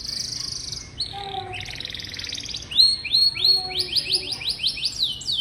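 Domestic canary singing: a fast buzzing trill, then a second rattling trill, then a run of quick repeated downward-sweeping notes, about four or five a second.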